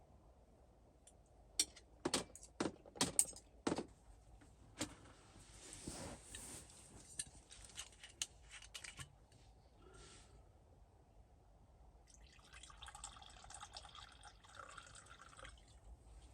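A few sharp clicks and knocks, like a bottle or cup being handled, then liquid pouring and dripping for a few seconds near the end.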